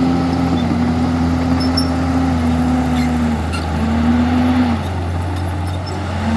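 Diesel engine of a Komatsu D51EX crawler bulldozer running under changing load, its pitch dropping and picking up again several times.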